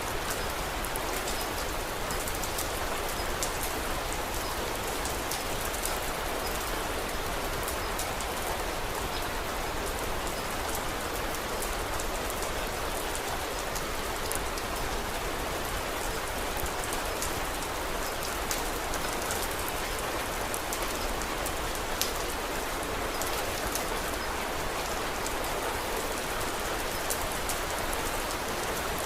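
Steady rain falling, with scattered small crackles from a wood fire and one sharper pop about three-quarters of the way through.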